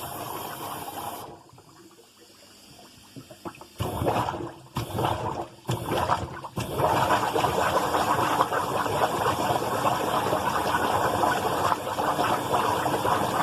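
Water rushing through a dishwasher's drain line, at first in short surges and then, from about halfway in, as a steady loud gush: the drain is flowing freely again.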